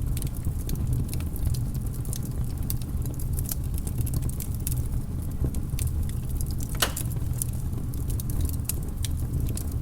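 Wood fire crackling, with many small sharp pops over a steady low rumble and one louder pop about seven seconds in.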